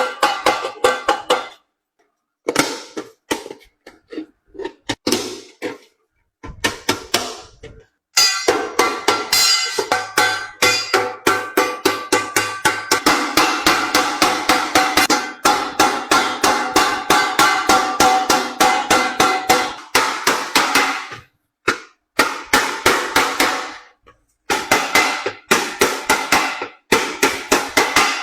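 Hand hammer beating sheet metal, several quick blows a second with a bright metallic ring after each, in runs broken by short pauses and one long unbroken run in the middle; a pot is being hammered as it gets a new, thicker bottom.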